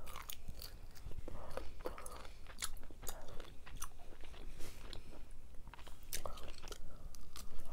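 A person chewing and biting jumbo cocktail shrimp close to the microphone: many short, wet mouth clicks scattered irregularly.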